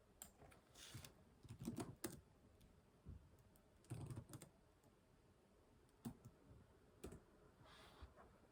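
Computer keyboard typing, quiet, in two short bursts of keystrokes followed by a few isolated single clicks about a second apart.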